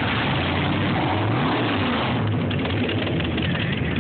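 Car engine running with a low, steady rumble, its pitch dipping and rising once as it is briefly revved a little after a second in.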